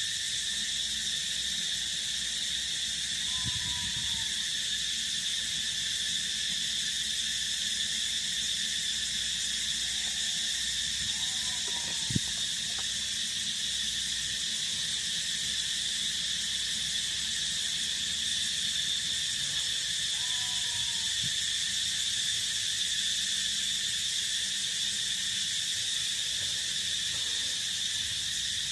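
A steady, high-pitched insect chorus trilling without a break, with a faint short call from a frog or bird three times, about eight seconds apart, and a single sharp click about twelve seconds in.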